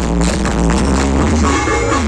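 Loud electronic dance music with heavy bass played through a large street sound-system rig.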